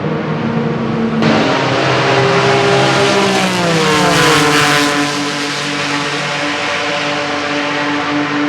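Vintage racing cars' engines at speed passing close by: the sound jumps louder about a second in, and the engine pitch falls as a car goes past, loudest about halfway through, with other engines running on underneath.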